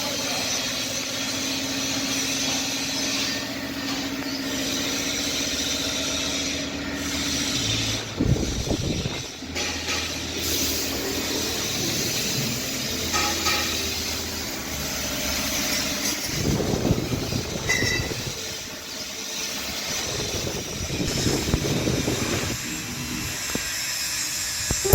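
Vegetable and fruit seed separator machine running with a steady mechanical hum. Several louder stretches of low churning rumble come and go.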